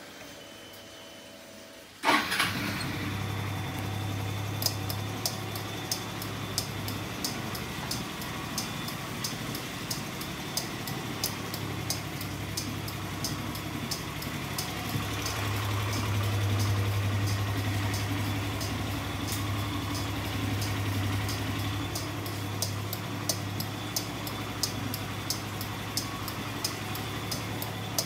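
Yamaha Majesty 125 FI scooter's fuel-injected engine starting about two seconds in and catching at once, then idling steadily with a light regular ticking. The idle runs a little faster and louder for several seconds in the middle.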